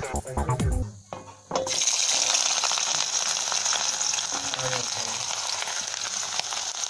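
Garlic cloves and red onion pieces frying in hot oil in a wok: a steady sizzle that starts suddenly about a second and a half in, as they go into the oil. Electronic music plays briefly at the start.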